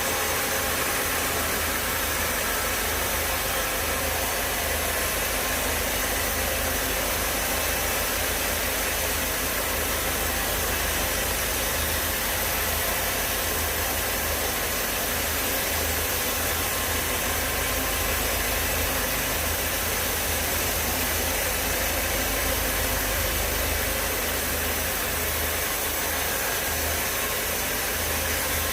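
Sawmill machinery running steadily: an even mechanical noise over a low hum, with no change in level.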